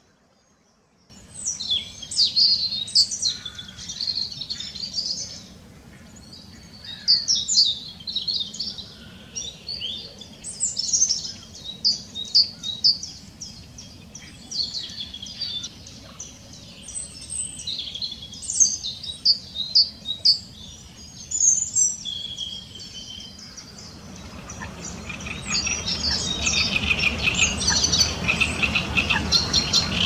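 Wild birds calling, with many quick high chirps and chatters. In the last quarter a great reed warbler starts singing, its song made of repeated phrases, louder than the calls before it.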